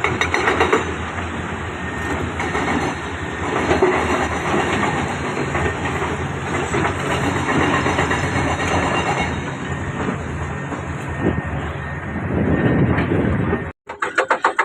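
Heavy construction machinery running with a dense mechanical clatter. Near the end the sound cuts out for a moment and comes back as a fast, even pulsing of several beats a second.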